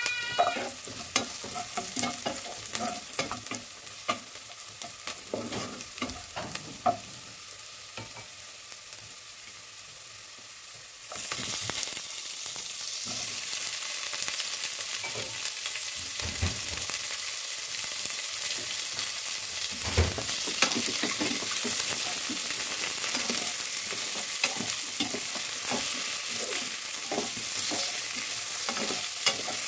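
Chopped onion, garlic and ginger sizzling in oil in a metal pot, with the clicks and scrapes of a spatula stirring. About eleven seconds in, raw chicken feet go into the hot oil and the sizzle jumps suddenly louder, then carries on as they are stirred, with a couple of dull thumps.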